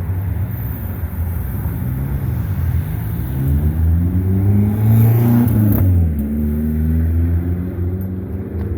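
Busy street traffic with engines running close by. About five seconds in, a vehicle passes nearby and its engine pitch drops as it goes by. Near the end, another engine rises in pitch as it speeds up.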